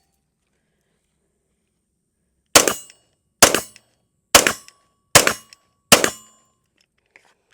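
Five 9mm shots from a Shadow Systems DR920 pistol, fired at an even pace a little under a second apart, starting about two and a half seconds in. The string empties the pistol's magazine.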